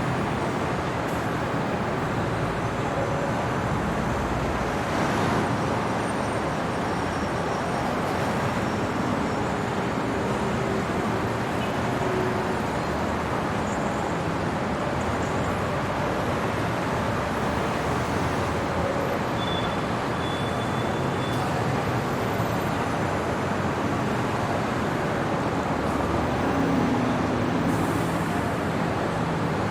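Steady night-time city traffic noise, a continuous rush of vehicles with no single one standing out and a few brief faint tones above it.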